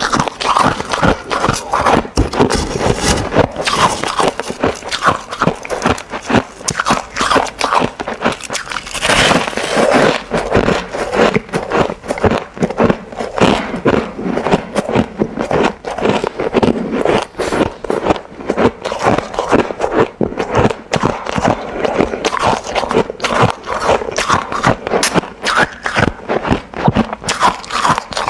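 Ice being bitten and chewed close to the microphone: a dense, unbroken run of crunches, several a second.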